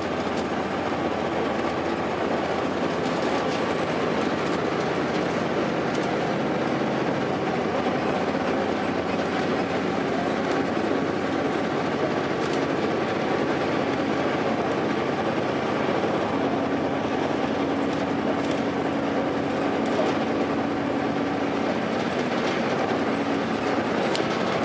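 Steady running noise inside a 2002 Blue Bird transit bus under way: the Cummins ISC diesel engine and road and tyre noise hold an even level, with a faint high whistle coming and going twice.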